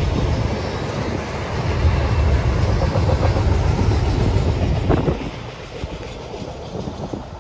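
Double-stack intermodal freight train's last well cars rolling past, a steady low rumble of wheels on rail that falls off about five seconds in as the end of the train goes by.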